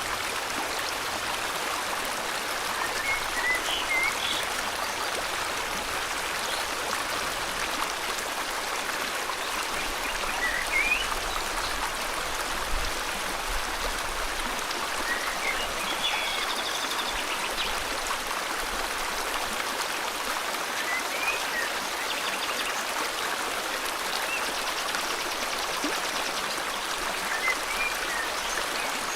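River water flowing steadily, with short bird chirps breaking through every few seconds and a brief rapid trill about midway.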